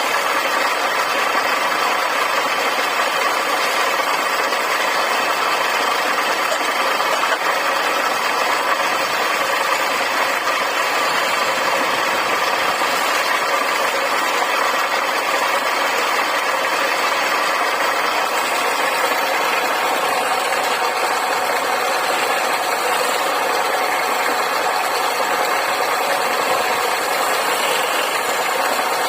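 Wood lathe running steadily.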